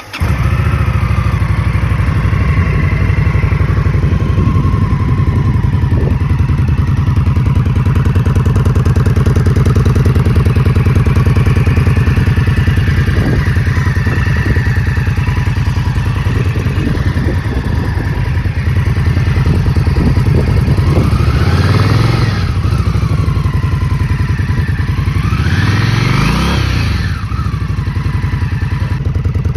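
2023 Indian Scout Rogue Sixty's 999 cc 60-degree V-twin on its stock exhaust, idling steadily, then revved twice in the last third, the pitch rising and falling each time.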